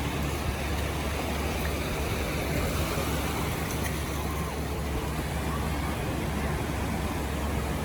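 Steady surf noise with a low, even rumble of wind on the microphone.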